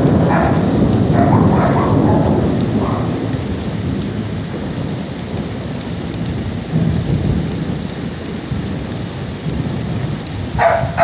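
Thunder rumbling low and slowly fading over steady heavy rain, with a second, softer roll of thunder partway through and a short, sharp louder burst near the end.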